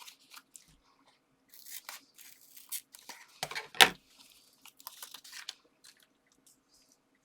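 Paper and card being handled while adhesive foam pads are peeled from their backing sheet: scattered crinkles and rustles, with one sharp knock on the desk a little under four seconds in.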